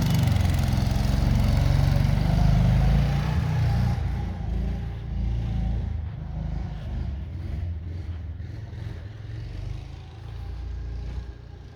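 Compact mini-tractor engine running and working, loud for the first four seconds or so, then dropping to a lower, uneven level.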